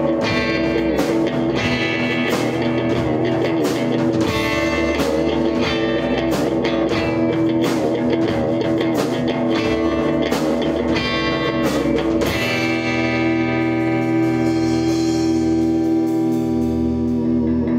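Rock band with electric guitar and drum kit playing; about twelve seconds in the drums stop and a final chord is left ringing steadily.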